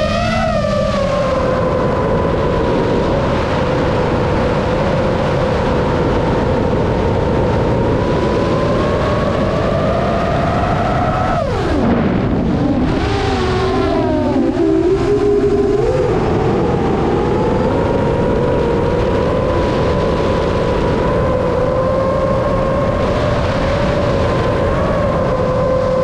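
RC airplane motor and propeller running with a steady whine over heavy wind noise. About twelve seconds in the pitch drops steeply as the throttle is cut, wavers for a few seconds, then climbs back to a steady whine.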